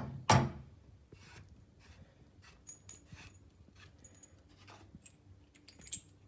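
Hands unscrewing a shower hose's threaded connector and handling the hose and fittings: one sharp clack just after the start, then faint clicks and rubbing of metal and plastic.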